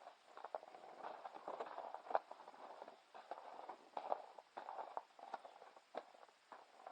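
A series of light, irregular knocks and scuffs, several a second at times.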